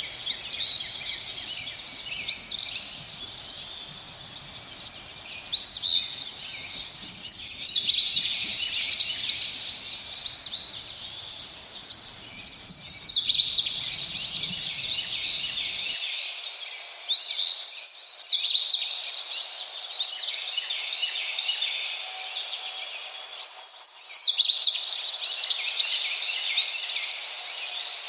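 Songbirds singing, with a loud phrase of fast, quickly repeated high notes about every five seconds, over a steady hiss of running water.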